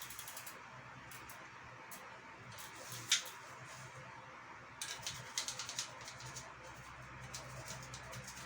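Faint scrubbing and clicking from cleaning a bicycle's chain and rear sprocket with a toothbrush. There is one sharper click about three seconds in and a quick run of clicks in the middle.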